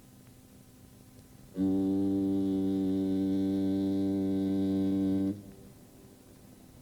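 A single steady held note from an electronic keyboard-like instrument, starting suddenly about a second and a half in, holding for almost four seconds without changing pitch, then cutting off. A faint low hum runs underneath.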